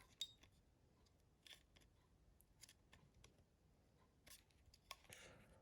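Near silence broken by a few faint, scattered clicks and ticks of small phone parts being handled as the Nokia 6060's display and flex cable are fitted into the housing.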